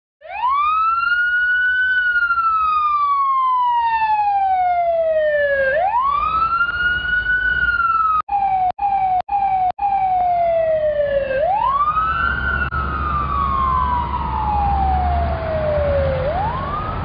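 Fire engine siren wailing: each cycle rises quickly and falls slowly, repeating about every five to six seconds. The sound cuts out briefly four times in the middle, and a low rumble comes in under it in the second half.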